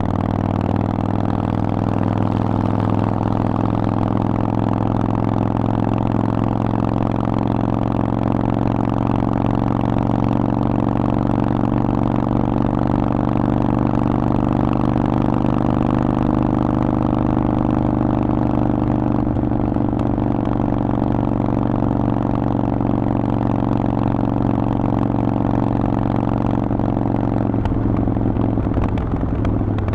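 Harley-Davidson Forty-Eight's 1200 cc air-cooled V-twin running loud through a Vance & Hines exhaust at a steady engine speed, its note holding an even pitch and then shifting near the end.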